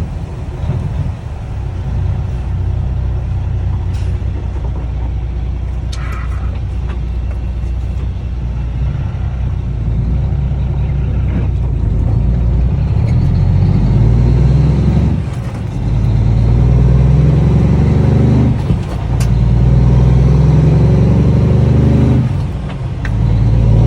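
Cummins ISX diesel truck engine running loud through six-inch straight pipes, a deep steady note with three brief drops in level in the second half.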